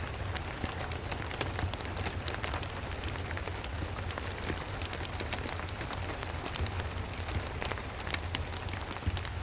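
Steady rain mixed with a crackling wood fire: a constant hiss of rain with frequent sharp little crackles throughout, over a low steady rumble.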